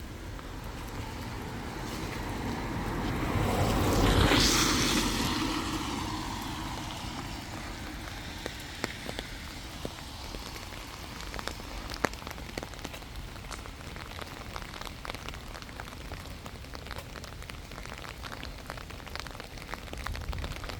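A vehicle drives past, its tyre and engine noise swelling to its loudest about four seconds in and falling away over the next few seconds. Afterwards faint irregular ticks and crunches over a low steady background.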